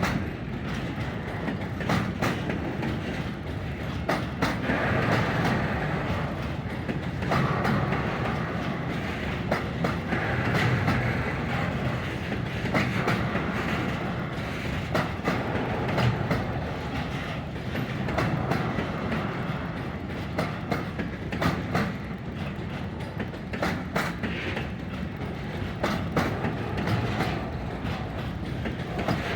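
Intermodal freight train wagons rolling past, a steady rumble with wheels clacking over rail joints at irregular intervals.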